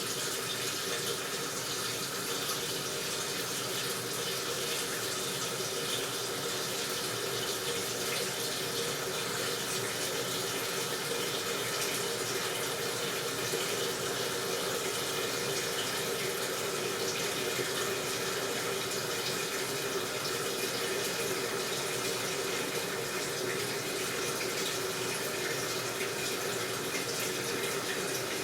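Washing machine running with a steady rush of water, like it is filling the drum.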